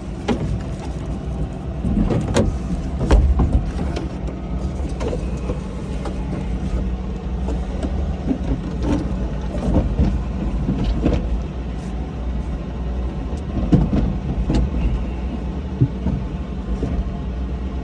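An excavator cab's inside screen air filter and its cover being worked loose and pulled out behind the seat: scattered knocks, scrapes and rustles of plastic and metal, over a steady low hum.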